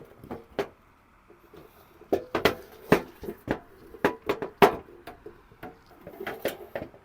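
Irregular metal clicks and knocks from parts being handled and screwed onto an ammo can, busiest through the middle and again near the end.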